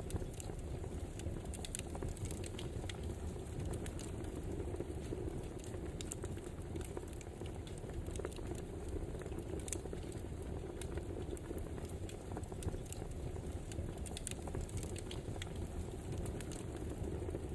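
Wood fire burning steadily, with a low rush of flame and frequent small, irregular crackles and pops from the burning logs.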